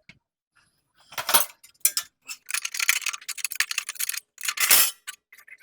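Metal parts clinking and scraping in a quick run of clicks, as the mower deck's belt covers are handled and fitted back on.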